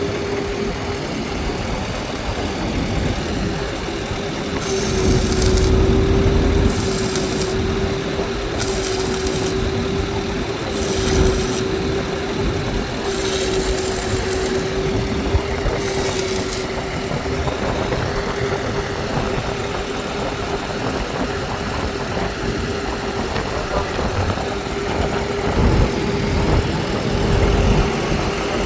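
An engine running steadily at idle with a constant hum. About six short hissing bursts, each around a second long, come between about five and seventeen seconds in.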